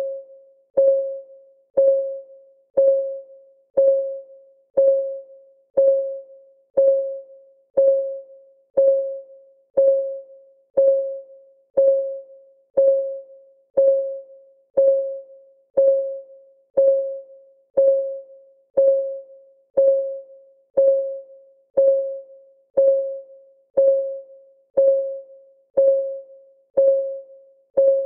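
Timer's clock ticking, one sharp tick a second, each with a short ringing tone that dies away quickly.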